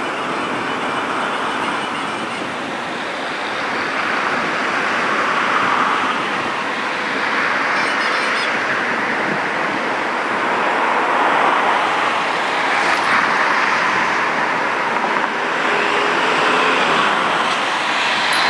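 Steady vehicle noise with no clear engine tone, swelling and fading every few seconds.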